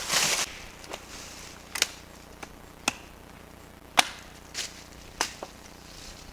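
Wood being chopped: a brief rustle, then five sharp strikes roughly a second apart, the loudest about four seconds in, with a few fainter taps between.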